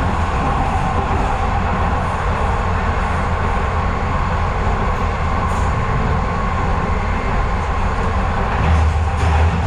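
Docklands Light Railway train running, heard from inside the carriage: a steady rumble with a faint whine and a few light clicks from the wheels.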